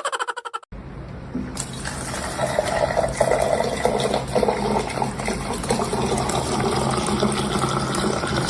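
Water running steadily, like a tap pouring or a vessel filling, starting about a second in after a short burst of quick taps, with a low hum underneath.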